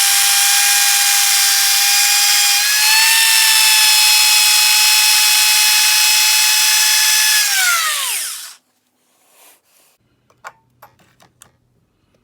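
Small electric motor running flat out with a loud, steady high-pitched whine. Its pitch steps up slightly a few seconds in, then falls as it spins down and stops, followed by a few light clicks.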